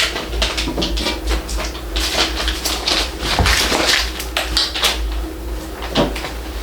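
Packaging being handled during an unboxing: a run of quick scrapes, rustles and knocks over a low steady hum.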